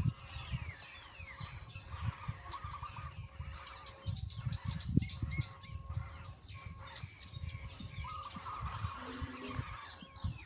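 Many birds chirping in quick, repeated calls, over irregular low knocks and rumble.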